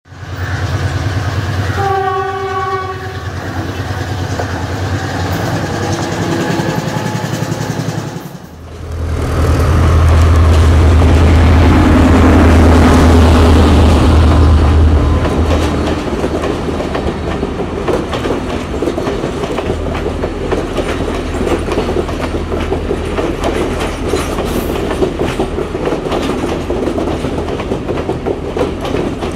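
Diesel passenger train sounding a short horn blast about two seconds in. After a cut, a diesel multiple unit's engine drones loudly as it passes close by, and then the coaches' wheels clatter steadily over the rail joints as they run past.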